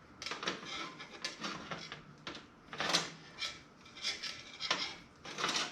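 Hands fitting computer parts into a metal toaster-oven case: repeated short scrapes, rubs and light knocks as the parts are pushed into place.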